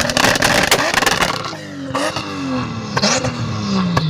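Car engine held on a two-step launch limiter: a rapid string of sharp pops and bangs for about the first second, then repeated revs that rise and fall, the last one dropping away near the end.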